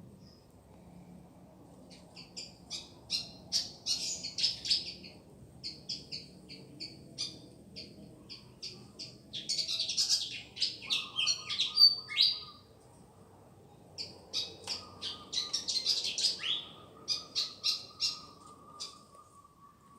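Fantail (burung kipasan) singing: three phrases of quick, sharp, high chirping notes. A faint steady tone joins about halfway through.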